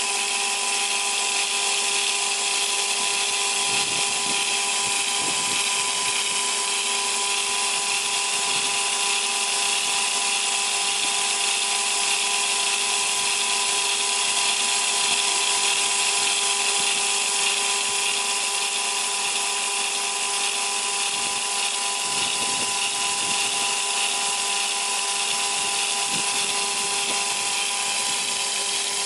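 PRINZ package-cutting chain saw running steadily with a constant whine over a hiss, its pitch unchanging throughout.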